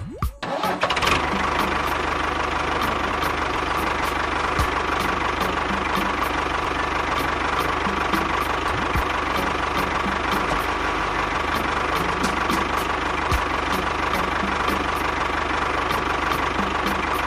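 Steady engine-like running with a regular ticking knock, starting and stopping abruptly.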